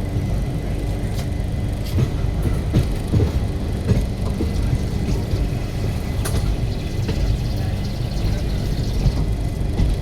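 Passenger train running on the track: a steady low rumble of the wheels and coaches, with occasional sharp knocks throughout.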